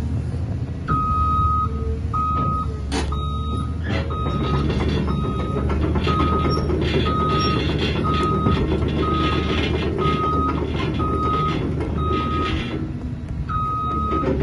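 Caterpillar 323D L hydraulic excavator with its diesel engine running and its travel alarm beeping about once a second, starting and ending with a longer beep. There are two sharp knocks about three and four seconds in, and a clattering through the middle.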